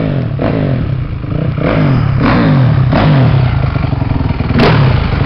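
Honda CRF450 single-cylinder four-stroke dirt bike engine being ridden hard, the revs climbing and dropping back about five times in a row as the throttle is opened and shut. One sharp click near the end.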